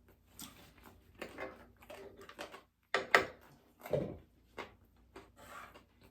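Eating sounds: irregular crunching and chewing of crisp food, with the loudest crunches about three and four seconds in.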